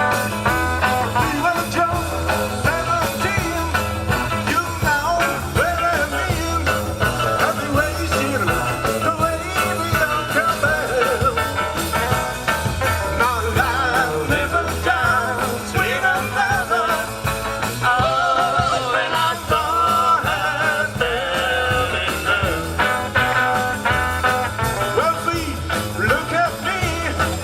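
A live rock band playing a song, with a wavering melody line over a steady low end.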